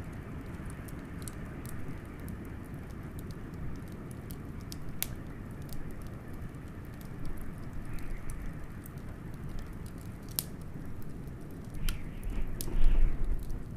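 Wood fire crackling with scattered sharp pops over a steady low rush of blizzard wind. A louder low surge comes near the end.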